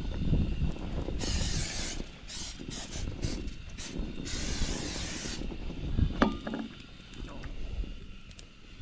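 Two short hisses from an aerosol cooking-oil spray can, about a second each, with wind rumbling on the microphone.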